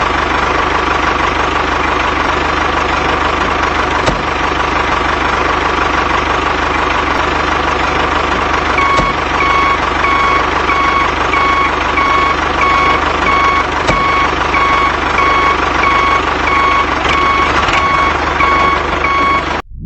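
Mini tractor's engine running steadily. A repeated electronic beeping, like a reversing alarm, starts about halfway through.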